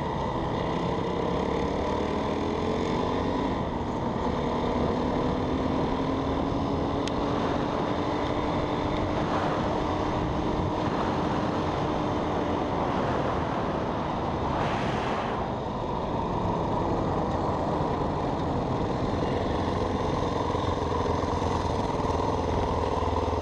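Yamaha WR450F dirt bike's single-cylinder four-stroke engine running steadily while being ridden, its pitch slowly rising and falling with the throttle.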